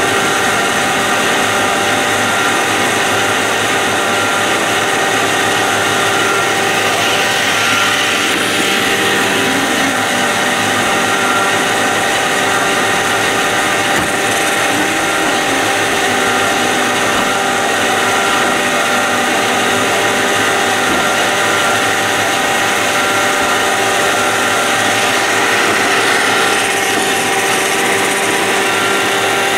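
iRobot Roomba robot vacuum running. Its motors give a steady whine at several fixed pitches over a constant rushing noise, unbroken throughout.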